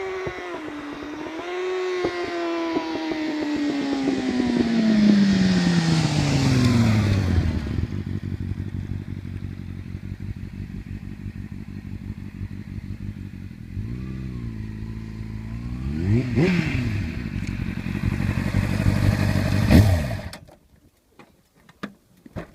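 Honda CBR600RR inline-four through an Arrow exhaust with the dB killer removed: the revs fall slowly for about seven seconds and settle into a steady idle. A few short throttle blips follow, and the engine cuts off about 20 seconds in.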